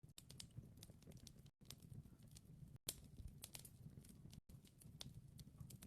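Wood fire crackling faintly: scattered sharp snaps and pops over a low steady rumble, broken by brief silent gaps.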